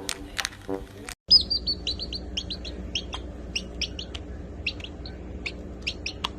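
Small birds chirping: many short, high-pitched chirps in quick, irregular succession, starting just after a sudden cut about a second in.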